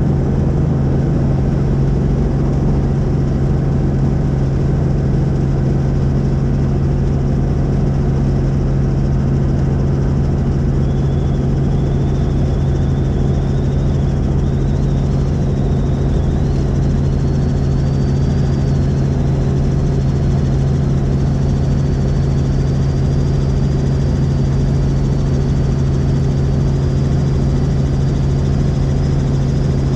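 Helicopter in flight: a steady, loud drone of engine and rotor with a strong low hum. About a third of the way in a faint high whine appears and slowly rises in pitch.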